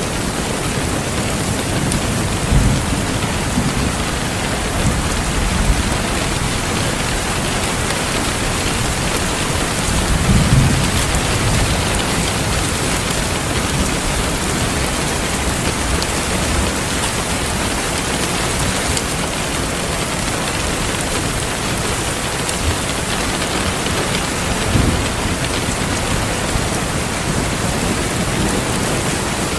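Steady heavy rain with distant thunder rumbling low a few times, the strongest rumble about ten seconds in.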